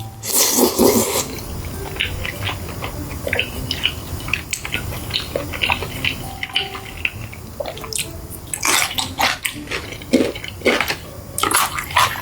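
Close-up eating sounds: crunchy bites into seasoned fried chicken and wet chewing, with many short crackles and a few louder crunches about a second in and again near the end.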